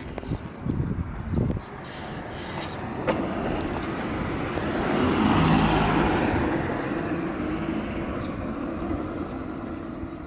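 A vehicle passing by: its noise builds to a peak about five seconds in and then slowly fades away. A few light knocks come in the first two seconds.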